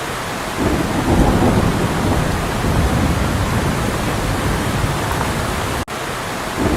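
A loud, steady rush of falling water, like a heavy downpour, with a low rolling rumble under it, broken by a sudden brief cut about six seconds in.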